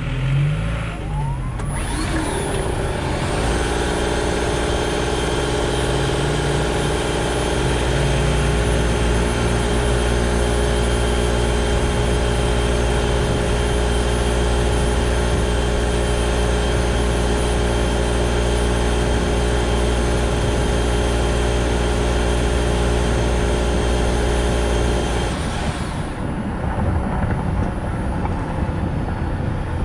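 Vehicle engine running at a steady speed with a low rumble, rising in pitch over the first few seconds and then holding one droning pitch until it cuts off abruptly near the end.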